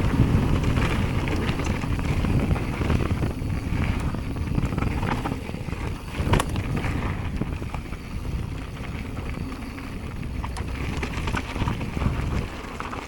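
Mountain bike riding down a bike-park trail: wind buffeting the microphone over tyre and trail noise. There is a sharp knock about six seconds in, and the noise eases off near the end.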